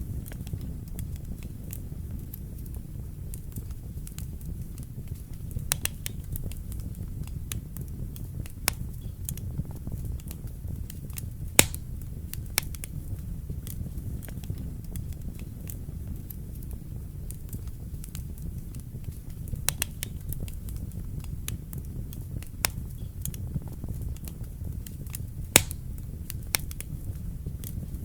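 Wood fire burning in a fireplace: a steady low rumble of the flames with irregular sharp crackles and pops, two of them louder, about twelve seconds in and near the end.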